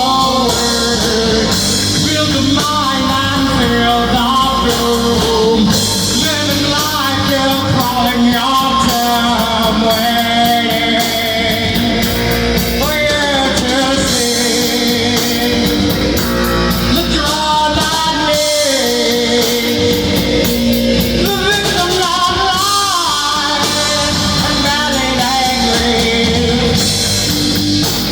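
Rock band playing: guitar, bass and drums, with a melody line that slides up and down over them.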